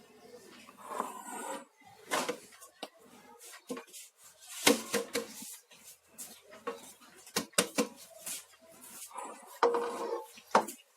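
Spoons and bowls clinking and knocking against each other and the counter, in a string of separate short clatters.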